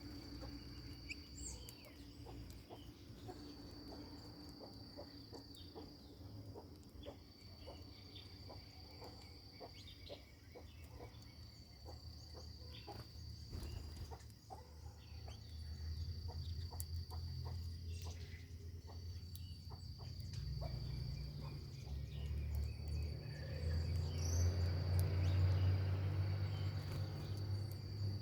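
An insect, cricket-like, trills steadily on one high pitch in long stretches broken by short pauses, with faint scattered clicks throughout. A low rumble builds up in the second half and becomes the loudest sound near the end.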